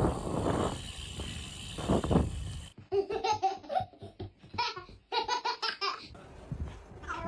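High-pitched laughter in quick, choppy bursts, starting about three seconds in after a stretch of low rumbling noise.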